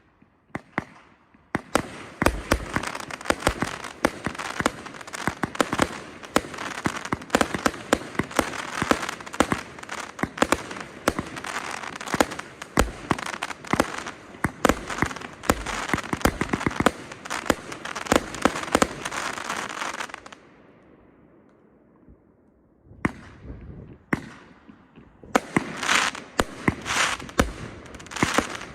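124-shot fireworks cake (Pro Fireworks CPB124S-F2-9401) firing: a rapid, dense run of shots and bursts for about twenty seconds, a pause of a few seconds, then further volleys near the end.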